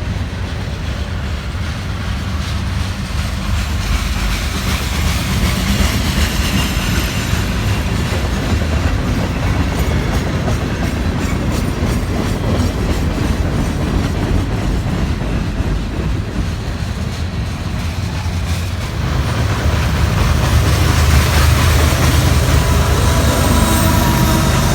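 Freight train passing close by at speed, its wheels clacking and rumbling steadily over the rails, growing louder about three-quarters of the way through.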